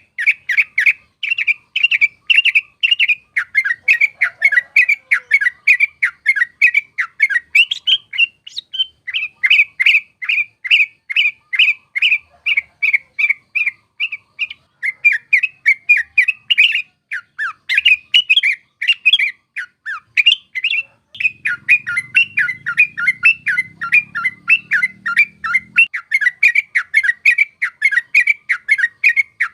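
Yellow-vented bulbul (trucuk) song: a fast rolling chatter of short, bright notes, several a second, with brief pauses.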